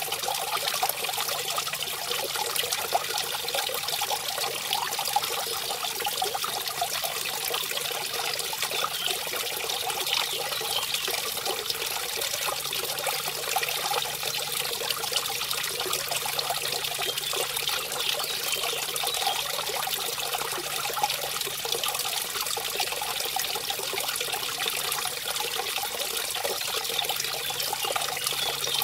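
Mountain brook running over a small waterfall: a steady splashing and gurgling rush of water with no letup.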